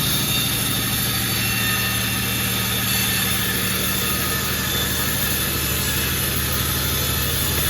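Pandan36 sawmill's engine running steadily with an even low hum and no change in speed.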